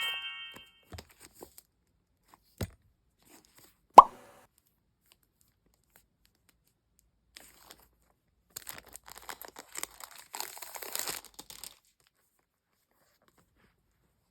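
A single sharp pop sound effect about four seconds in. Later comes a few seconds of plastic wrapping crinkling and tearing as it is peeled open.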